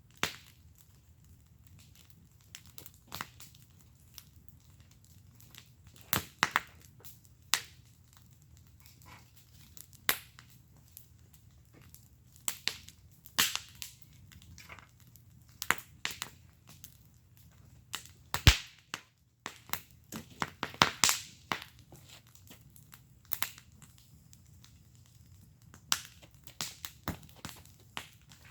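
Wood fire in a fire pit crackling, with irregular sharp pops and snaps of burning wood, some in quick clusters, the loudest about eighteen seconds in, over a faint low hum.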